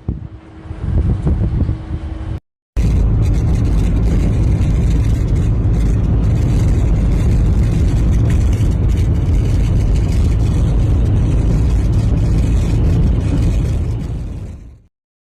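Strong sandstorm wind blasting the microphone: a loud, dense rumbling rush, starting abruptly after a short break about two and a half seconds in and fading out near the end.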